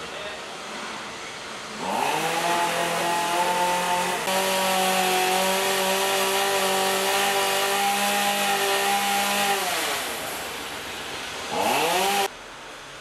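Two-stroke chainsaw revving up and running at high speed for several seconds, then winding down. It revs up again briefly near the end and cuts off suddenly.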